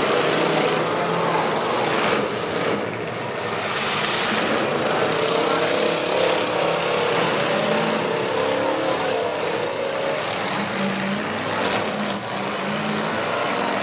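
Several demolition derby cars' engines running and revving, their pitch wavering up and down, over a steady haze of noise.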